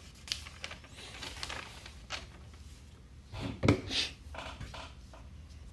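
Handling noise: scattered clicks and taps, a soft knock about three and a half seconds in, then a brief rustle, as objects are picked up and set down.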